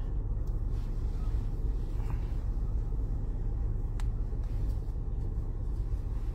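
Parked car's engine idling, a steady low rumble heard from inside the cabin, with one sharp click about four seconds in.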